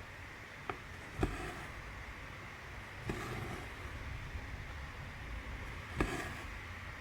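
Hand cross-stitching: four light clicks and taps, with short soft swishes of thread being drawn through the fabric, over a steady low room hum.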